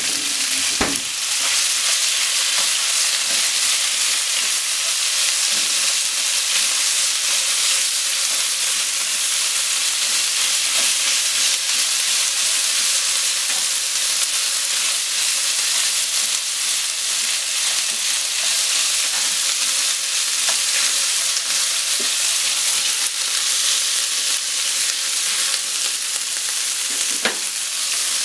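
Sliced pork and green onions sizzling in sesame oil in a frying pan: a steady hiss, with chopsticks stirring the meat around the pan.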